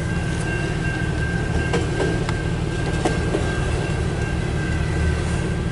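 CN mixed freight cars rolling slowly past: a steady low rumble of wheels on rail, with a few faint clicks from the wheels over the track.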